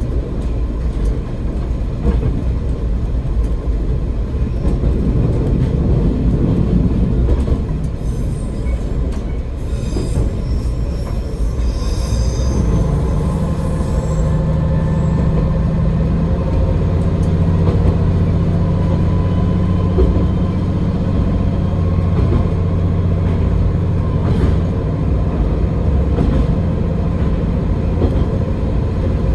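AN-8800 diesel railcar running along the track, a steady rumble of wheels on rail. Wheels squeal shrilly on a curve for several seconds about a third of the way in, after which a steady low engine drone comes up and holds.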